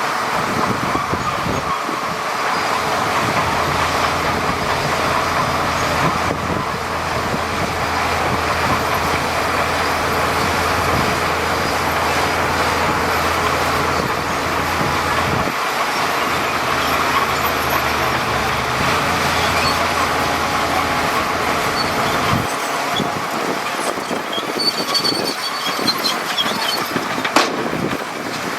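Heavy earthmoving machinery at work: a diesel engine running steadily under a continuous clattering rumble. Its low drone drops away about three-quarters of the way through, and a few sharp knocks come near the end.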